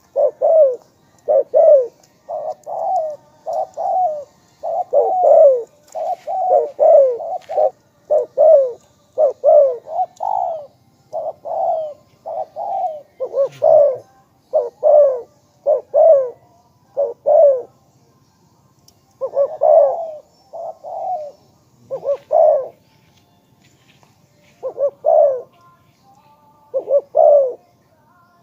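Spotted dove cooing over and over: loud, short, hollow coo notes in repeated phrases, with a couple of short pauses between runs near the middle and toward the end.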